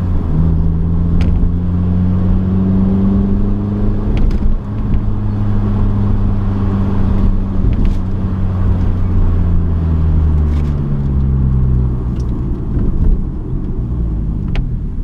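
Mini One R50's four-cylinder engine running under way through its Scorpion sports exhaust, a steady drone. The pitch drops sharply about half a second in, creeps up over the next few seconds, then falls away steadily from about eight seconds in as the car slows.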